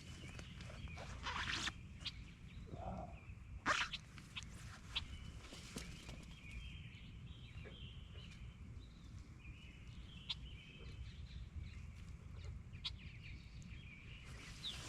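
Outdoor lakeside ambience with birds calling on and off, over a low steady rumble and scattered sharp clicks and knocks, the loudest a little under four seconds in.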